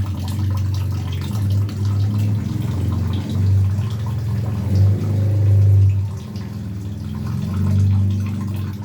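Tap water running and splashing while a songbird is bathed and its head wetted, over a low, steady hum that swells and fades.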